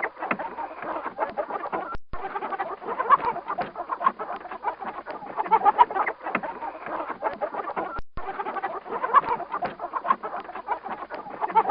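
A flock of chickens clucking and peeping, many short calls overlapping without a pause, broken by two brief silent gaps, about two seconds in and about eight seconds in.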